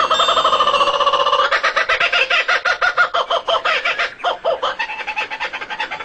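A bird calling in a fast run of repeated pitched notes, about eight to ten a second, that changes pitch and eases off after about four seconds.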